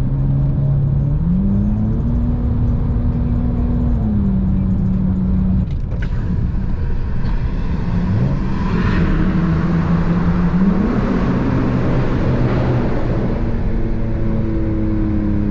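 Car engine running under way, its note rising as it accelerates about a second in, easing off near the middle, dropping out briefly, then climbing again near the end. A broad rush of noise swells through the middle of the stretch.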